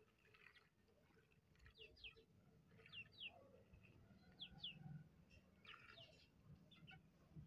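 Faint bird chirps: short falling notes, often in quick pairs, repeating every second or so over near silence.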